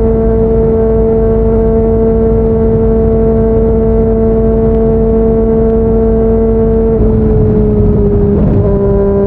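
Yamaha MT-09's inline three-cylinder engine through a Yoshimura R55 slip-on exhaust, cruising at steady speed on the road. About seven seconds in its pitch drops slightly, wavers briefly, then holds steady again at the lower note.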